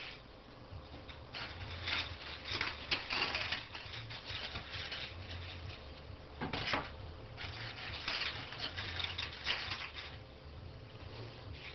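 CNC hot-wire foam cutter at work: its stepper motors hum in stretches of a second or two as they drive the wire through the foam core, with irregular crackling clicks throughout.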